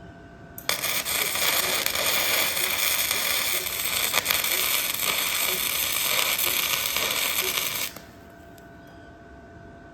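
Electric welding arc crackling steadily as a weld is run, starting about a second in and cutting off suddenly after about seven seconds when the arc is broken.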